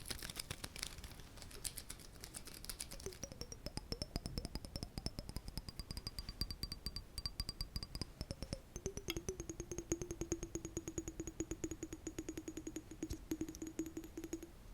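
Fast, even ASMR tapping, many taps a second, heavier for the first few seconds. Long held musical tones sound over it, one starting about three seconds in and a lower one joining at about nine seconds.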